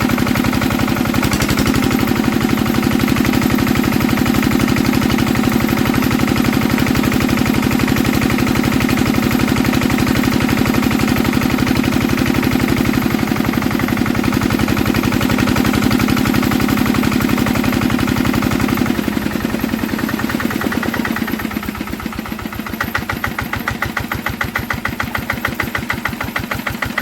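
Old Enfield diesel engine running with a steady, even knock of firing beats. About two-thirds of the way through it slows down and quietens, settling to a slower run with more widely spaced beats.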